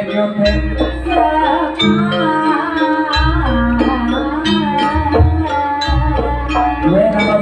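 Live Banyuwangi jaranan and gandrung ensemble music: a wavering, sliding melodic line over steady percussion, with long low bass notes that come and go.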